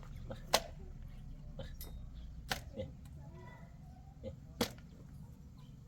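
Three sharp knocks or cracks about two seconds apart, over a low steady rumble.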